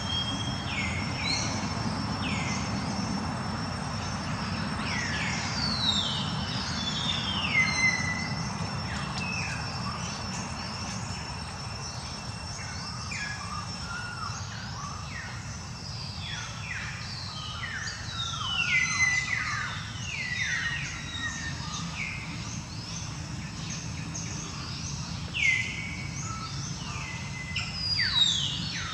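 Birds chirping with many short calls that slide down in pitch, coming in clusters, over a faint steady high insect whine and a low outdoor rumble.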